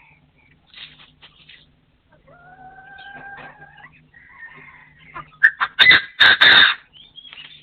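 Wild partridge crowing: a loud call of a few short harsh notes running into two longer ones, near the end. Fainter bird notes and a faint rising whistle come before it.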